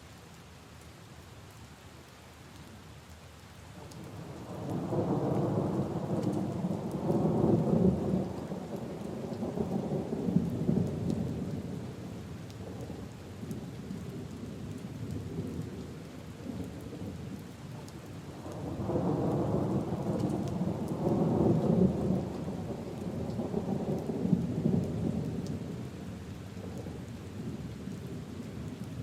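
Steady rain falling on leaves and puddles, with two long rolls of thunder, the first starting about four seconds in and the second about eighteen seconds in, each rumbling for around eight seconds before fading back to the rain.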